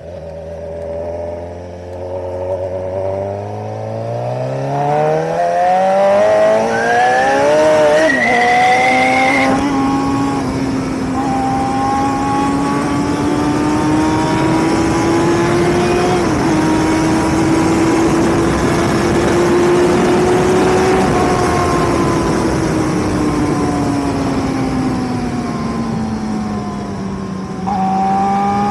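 Suzuki motorcycle engine accelerating hard, its pitch climbing steadily for about nine seconds before dropping sharply at a gear change. It then runs at speed under heavy wind rush, easing slowly up and then down as the bike slows, and climbs again briefly near the end.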